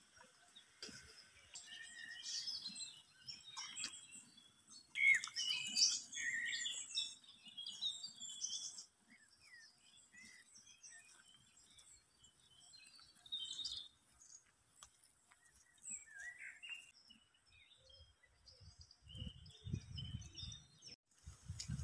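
Small songbirds chirping and twittering in the trees, busiest around five to seven seconds in, with scattered calls after. A low rumble comes in near the end.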